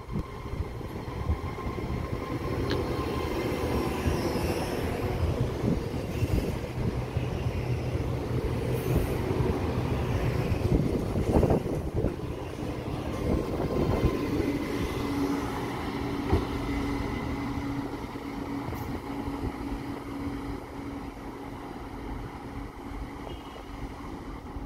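An Alstom Pop (ETR 104) electric multiple unit rolls past along the platform. Its wheel and rail noise rises to a peak about halfway through and then fades as it moves off, with a steady hum for a few seconds after it passes.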